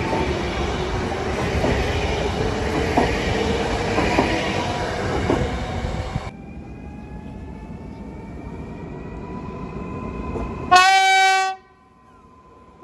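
Electric multiple-unit passenger train passing close, its wheels knocking over the rail joints about once a second. Then a quieter approaching unit with a faint rising whine, and one short, loud horn blast about 11 seconds in.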